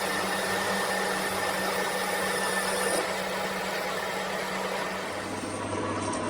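An electric workshop machine running steadily with a motor hum, the hum dropping lower about five seconds in.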